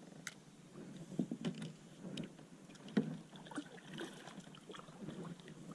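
Light, irregular knocks and clatter of handling in a fishing kayak on the water.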